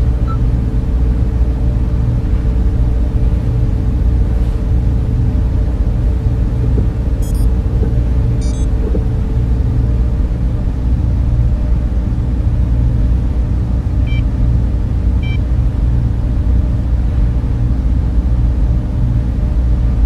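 Server room cooling fans running in a steady low rumble with a hum over it. A few faint, brief high ticks come through about seven to nine seconds in and again near fourteen to fifteen seconds.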